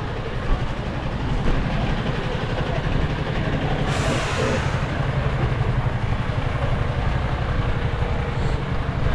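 Engine of a large vehicle, such as a bus or truck, running steadily close by with a low rumble, and a short hiss about four seconds in.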